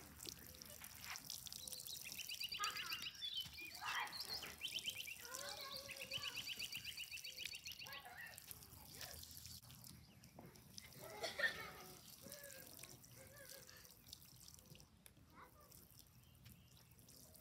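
Faint outdoor background: a bird's rapid high trills, twice in the first half, among other scattered faint chirps and calls.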